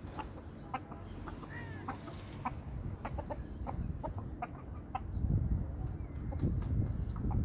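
Aseel roosters making short, scattered clucks, with one brief falling call, over a low rumble that grows louder in the second half.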